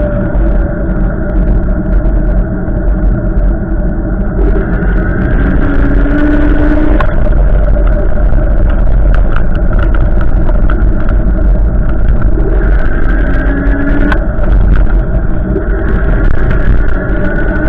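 Strong wind gusting, heavy rumble on the microphone with steady whistling tones that slowly drift in pitch.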